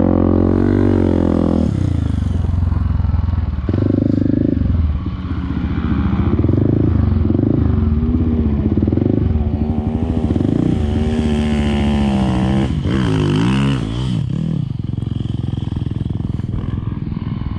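Off-road motorcycle engine revving up and down while riding, its pitch rising and falling repeatedly, with a quick wavering of revs about thirteen seconds in.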